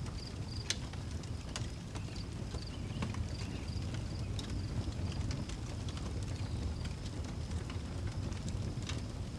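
Wood fire crackling, with scattered sharp pops over a low steady rumble of flame. Crickets chirp in a high, pulsing trill behind it.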